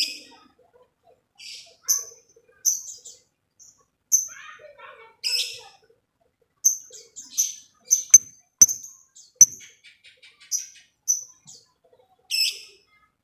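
Lovebirds giving sharp, high chirping calls in short separate bursts, with a quick run of short ticking notes a little past the middle.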